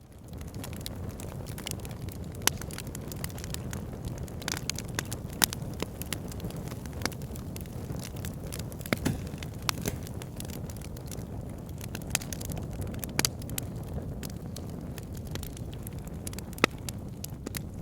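Wood fire in a fire pit crackling, with irregular sharp pops over a steady low rumble; the loudest pop comes near the end.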